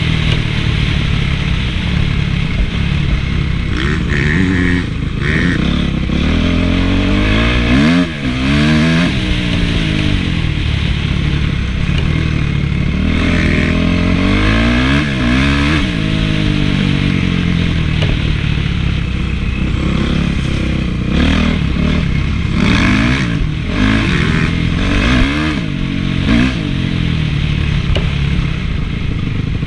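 Honda CRF450 motocross bike's single-cylinder four-stroke engine being ridden hard, its pitch rising and falling over and over as the throttle is worked and gears change.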